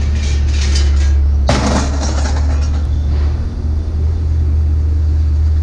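Vehicle engine running with a steady low hum, and a short loud burst of noise about one and a half seconds in.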